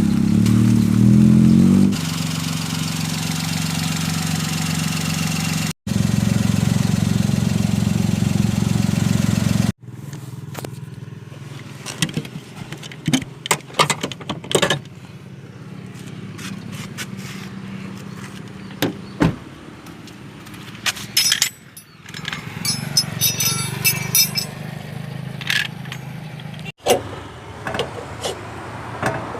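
Car running, in several cut clips: first a steady, fairly loud engine hum, then a quieter stretch with a low hum and many scattered sharp knocks and clicks.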